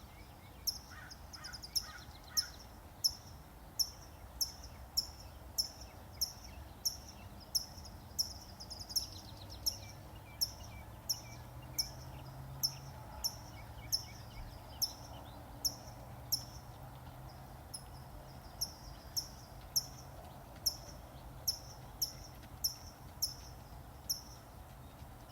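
A bird repeating one short, high chirp over and over at a steady pace, a little under two a second, over faint outdoor background noise. A low, steady hum rises in the middle and fades again.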